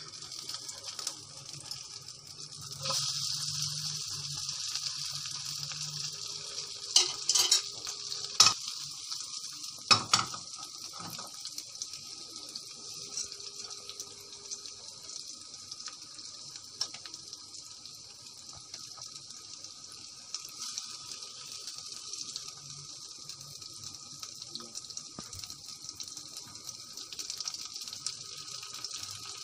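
Ghee sizzling steadily under an egg-dipped bread sandwich frying in a nonstick pan over low heat. The sizzle grows louder about three seconds in, and a few sharp knocks of a spatula and fork against the pan come around seven to ten seconds in as the sandwich is turned over.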